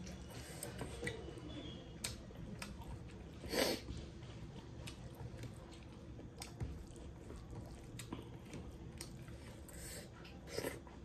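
Close-up mouth sounds of someone eating smoked pork and rice: chewing with small wet clicks, plus two louder brief mouth sounds, one about a third of the way in and one near the end.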